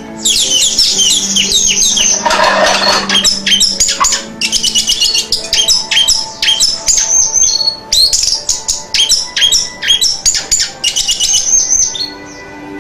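Orange-headed thrush (anis merah) singing a fast, continuous run of sharp, down-slurred whistled notes, with a short noisy burst about two seconds in.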